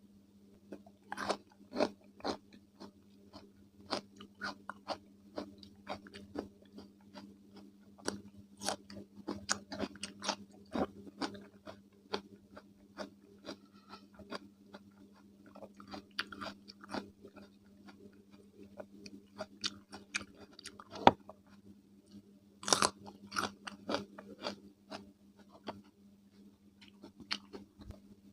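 Close-miked chewing of raw cucumber with mayonnaise: irregular crisp crunches and wet mouth sounds. A louder run of crunches comes about 23 seconds in. A faint steady low hum lies underneath.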